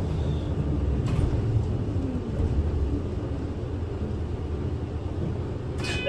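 Inside a moving Kyoto City bus: steady low engine and road rumble, with a brief sharp sound just before the end.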